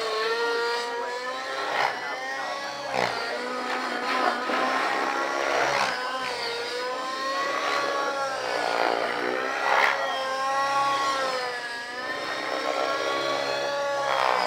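Radio-controlled helicopter flying 3D aerobatics: its motor and rotor whine rises and falls in pitch over and over as it is thrown through manoeuvres, with a few sharp swelling whooshes from the blades.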